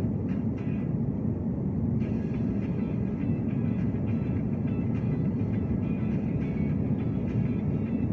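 Steady low rumble of an airliner taking off, with no rise or fall in level.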